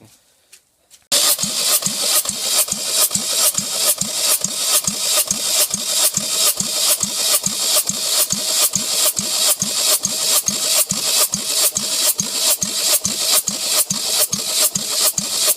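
Ford SHDA 1.6 Duratec inline-four petrol engine on a test stand, coming in suddenly about a second in and then running steadily with an even, rasping beat about four times a second.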